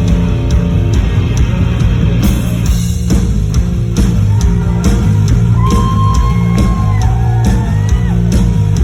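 Rock band playing live in a hall, loud with drums, bass and distorted guitar, recorded from the crowd. A held, wavering sung or yelled vocal comes in about halfway through.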